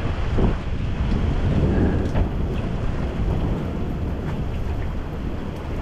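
Strong wind from a passing thunderstorm squall buffeting the microphone: a steady, low, blustery rush.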